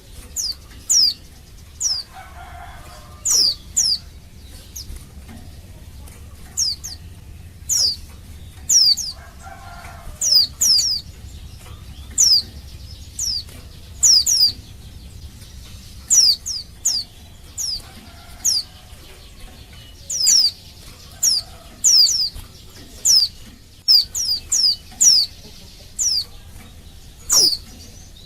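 Female white-eye (pleci) calling for a male: short, high notes that sweep downward, repeated about once or twice a second and often in pairs.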